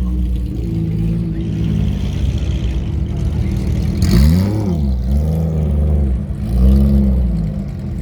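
Car engine idling, blipped once with a sharp rev about four seconds in, then two smaller throttle blips.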